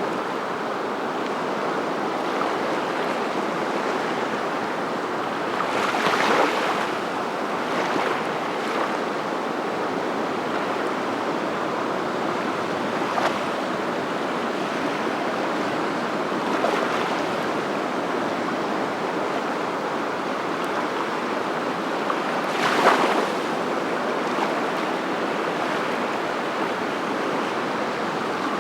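Steady rushing water, a continuous noise with a few brief louder surges every several seconds.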